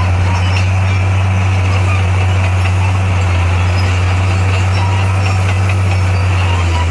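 D58A bulldozer's diesel engine running at a steady speed with a deep, even drone.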